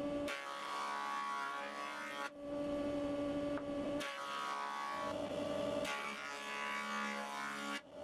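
Woodworking machine motors running in a string of short clips, a steady hum that changes pitch at each abrupt cut about every one to two seconds.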